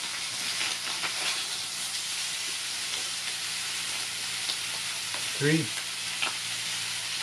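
Bacon sizzling as it fries over a campfire, a steady crackling hiss.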